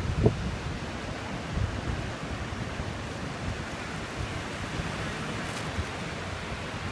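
Ocean surf washing steadily on a beach, with wind buffeting the microphone and a brief low thump of a gust just after the start.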